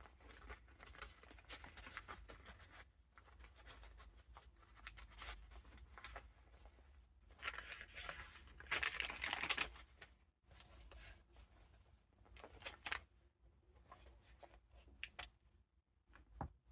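Paper pages of a handmade junk journal with vintage ephemera being turned and handled: soft rustling and crinkling of paper, with a louder rustle about halfway through.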